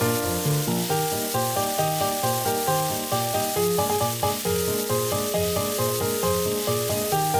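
Food sizzling steadily in a hot frying pan, with background music playing a bouncy, stepping melody over it.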